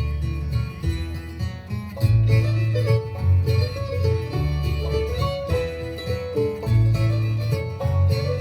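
Acoustic bluegrass band playing an instrumental intro: picked banjo and guitar with fiddle, over steady low bass notes.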